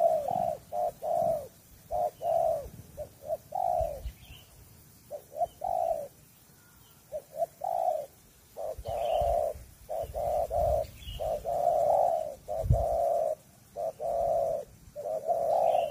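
Spotted dove (tekukur) cooing: repeated phrases of short, low hooting coos with brief gaps between them, and a quieter stretch around the middle.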